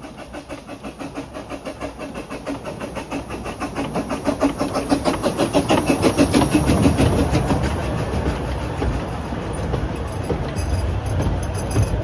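Narrow-gauge steam locomotive working a train, its rhythmic exhaust beats growing steadily louder as it approaches, then giving way to a steadier rumble of the train running past.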